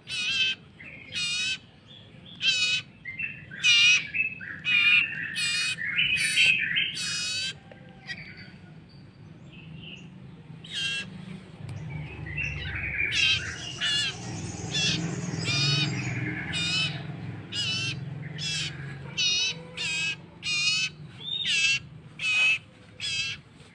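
Young common iora (cipoh) chick begging to be fed, with short, wavering high chirps repeated about twice a second. The chirps bunch into faster chatter twice and pause briefly in the middle.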